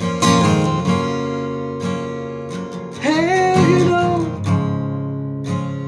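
Acoustic guitar strummed in a slow, even rhythm, with a brief wordless sung note that slides up and holds about three seconds in.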